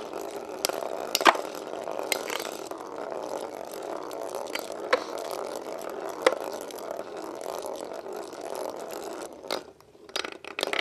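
Two Beyblade Metal Fusion spinning tops, Lightning L-Drago 100HF and Burn Fireblaze 135MS, whirring and grinding around a stadium bowl. Sharp clicks come now and then where they clash. The whirring dies away near the end as the round ends.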